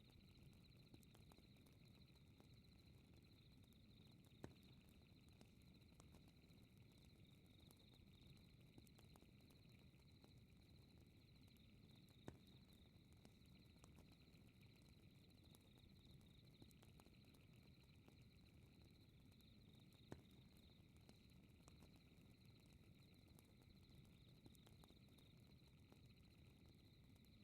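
Very faint fireplace crackling, with scattered small ticks and three sharper pops spaced about eight seconds apart, over a steady high chirring of night insects.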